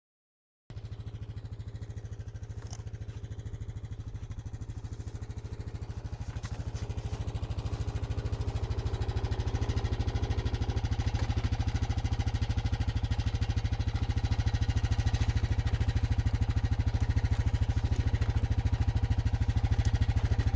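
Small trail vehicle's engine running at a steady speed with an even, fast pulse, gradually getting louder.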